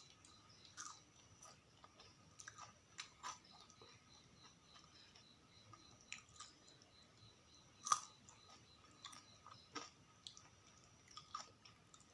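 Close-miked chewing of sausages and fries: irregular wet clicks and small crunches from the mouth, with one sharper crunch about eight seconds in.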